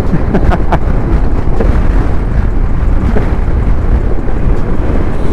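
Loud, steady wind rumble buffeting the microphone of a camera on a moving motorcycle, with road noise beneath.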